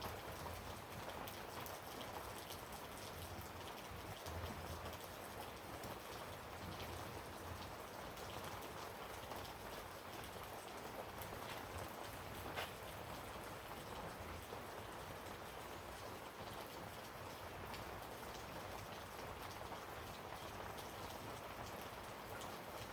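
Steady rain pattering, with one sharper click about halfway through.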